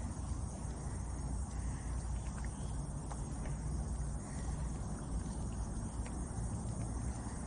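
Insects chirring outdoors over a steady low rumble, with a few faint ticks scattered through.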